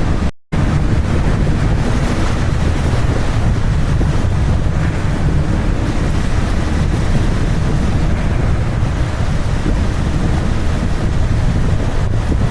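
Wind buffeting the microphone: a loud, steady rush, heaviest in the low end, that drops out for a moment near the start.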